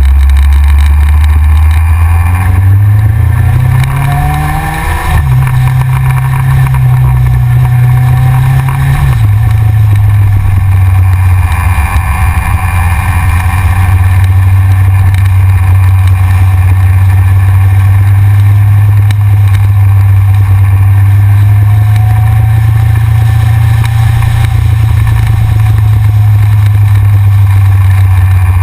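Yamaha XJR's inline-four engine accelerating, its note rising, then dropping at gear changes about five and nine seconds in, after which it runs steadily at cruising speed.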